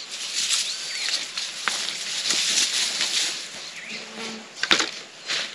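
Birds chirping with short whistled calls over a steady rustling hiss, with one sharp click near the end.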